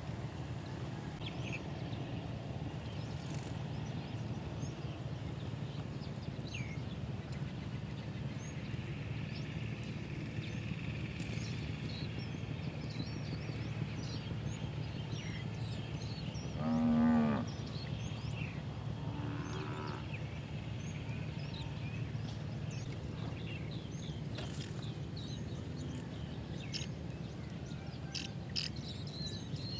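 Small birds chirping faintly over a steady low hum, with a short loud moo from a cow about halfway through and a fainter call a couple of seconds later.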